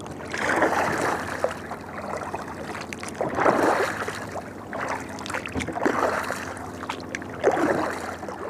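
Kayak paddle strokes swishing through the water, four strokes a couple of seconds apart.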